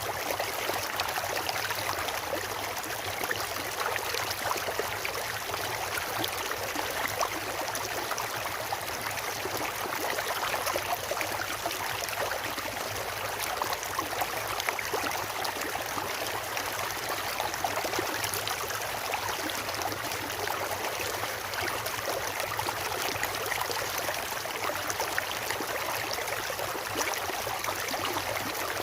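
Stream water rushing and splashing in a steady, even flow.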